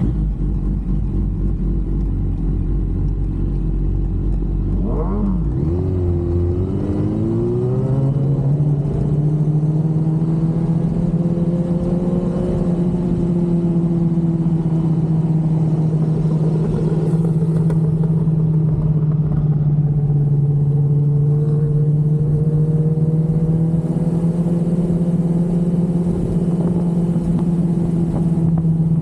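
Sport motorcycle's inline-four engine pulling away. Its pitch rises and wavers about five to eight seconds in, then holds a steady drone at an even speed.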